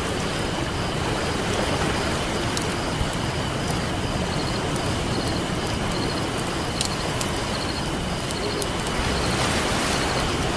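Campfire crackling with occasional sharp pops over the steady wash of ocean surf, the surf swelling slightly near the end.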